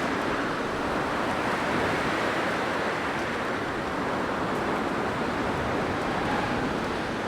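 Blizzard wind blowing, a steady rushing noise that swells and eases gently.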